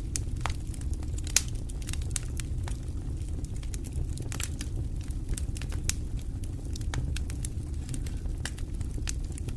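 Wood fire in a fireplace crackling with many irregular sharp pops over a steady low rumble of the flames; one pop about a second and a half in is louder than the rest.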